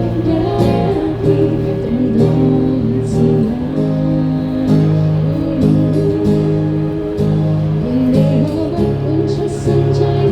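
Live band music with a strummed acoustic guitar playing chords over steady low bass notes.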